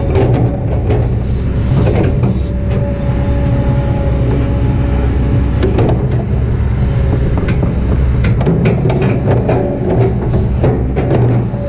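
Kobelco SK200-8 hydraulic excavator working: a steady diesel engine drone with frequent knocks and clanks, busiest near the start and in the last few seconds, and a thin steady whine for a few seconds in the middle.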